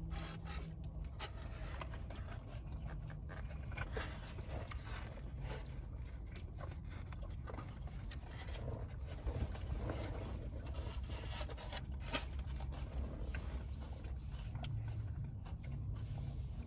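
A person eating a chicken sandwich: chewing, with scattered small clicks and scratchy rustling, over a steady low hum.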